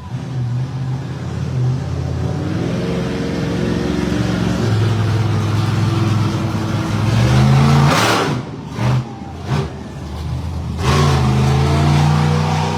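Monster truck engine revving. The revs climb to a loud peak about eight seconds in, fall away with two short blips, then build again near the end.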